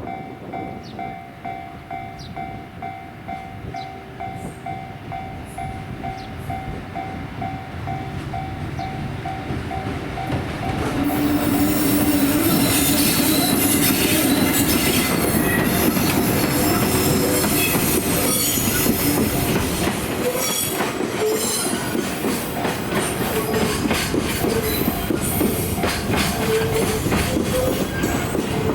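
A freight train hauled by an EF81 electric locomotive rolls in and passes close by, its wheels squealing and clicking over rail joints. It starts about a third of the way in and stays loud after that. Before it arrives, a steady repeating ding sounds about twice a second.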